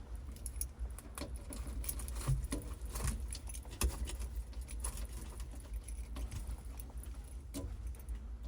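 A scatter of light, irregular clicks and clinks over a steady low rumble.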